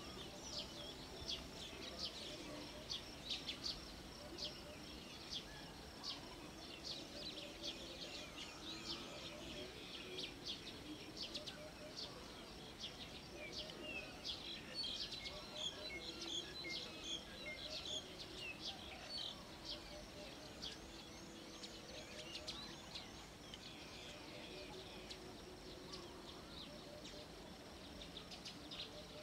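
Many small birds chirping, a dense run of short, high calls over a faint low outdoor murmur.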